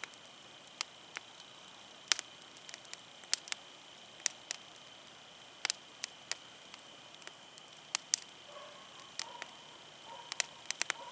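Wood campfire crackling: burning firewood giving irregular sharp pops and snaps over a low steady hiss.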